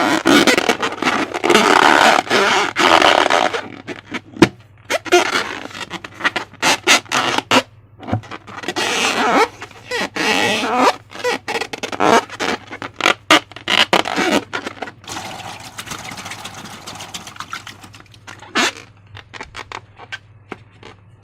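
Slime being worked by hand: squelches, crackles and sharp clicks in a dense run, thinning to scattered faint clicks over the last few seconds.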